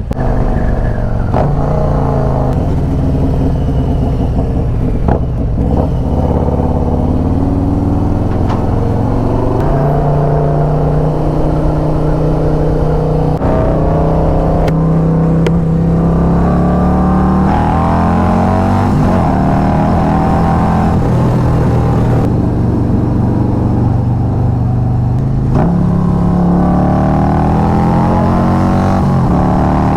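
Harley-Davidson V-twin motorcycle engine under way, its pitch climbing and then stepping as the rider shifts gears, over a steady low rumble of wind and road.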